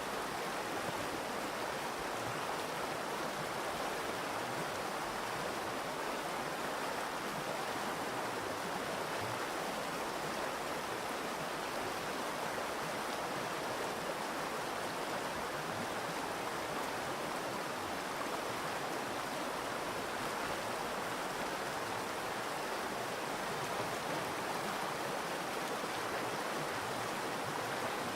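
Virgin River water flowing: a steady, even rush of moving water with no breaks.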